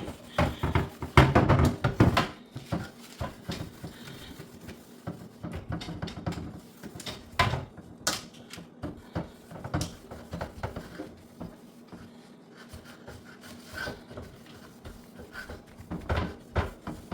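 Scrubbing and rubbing with irregular knocks and clatter as a dirty refrigerator part is washed by hand, busiest and loudest about a second or two in.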